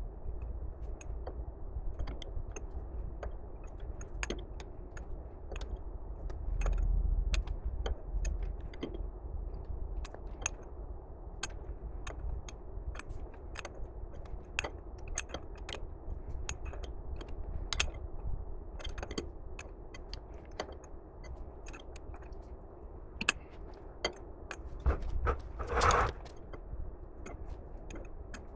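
Scattered light clicks and knocks of tools and portal-box parts being handled on the bench, over a low steady hum, with one louder, longer noise near the end.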